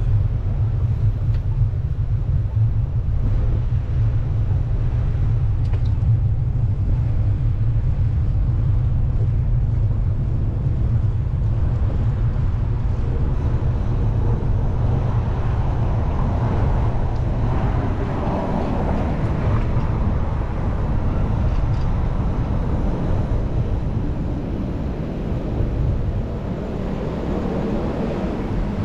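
Steady low wind rumble on the microphone of a moving bicycle, with street and traffic noise growing louder about halfway through.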